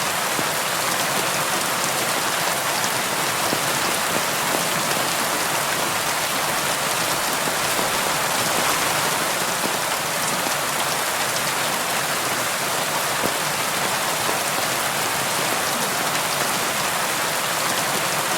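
Steady rain falling on window glass, an even hiss with many small drop ticks.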